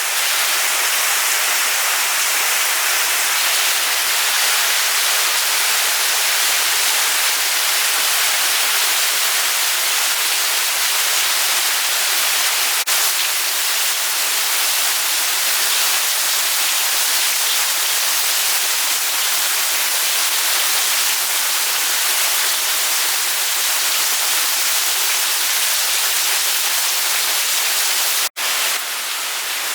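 Heavy tropical-storm rain pouring down, a loud, steady, dense hiss. It cuts out for a moment near the end and comes back slightly quieter.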